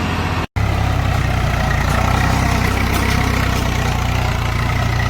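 Diesel tractor engine running steadily at low revs. The sound cuts out completely for an instant about half a second in.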